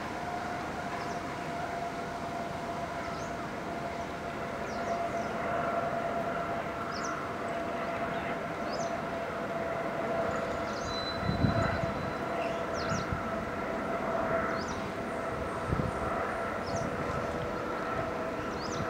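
A passenger train of 25T coaches rolling past at a distance, with a steady whining tone over the rumble and a couple of low thumps partway through. Birds chirp briefly now and then.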